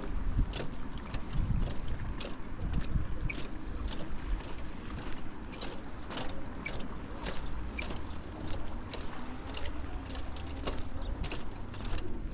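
Wind rumbling and buffeting on the microphone by the sea, with a run of sharp ticks about twice a second throughout.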